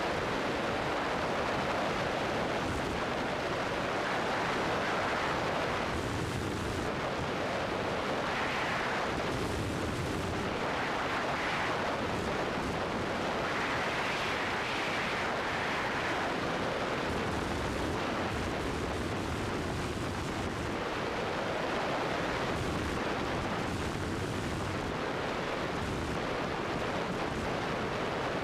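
Steady rushing noise of a Cessna 172 in flight, engine and airflow blended into one even drone, swelling and easing slightly at times.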